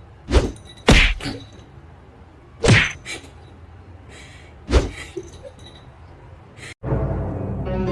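A series of five sharp thumps at irregular intervals. A little before the end the sound cuts off abruptly and music with sustained held tones starts.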